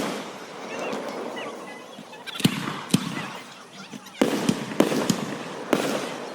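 Fireworks shells bursting overhead: about five sharp bangs at uneven intervals starting about two and a half seconds in, with crackling between them.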